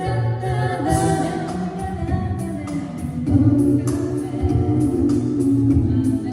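A rock band playing a song live, with singing over a steady drum beat.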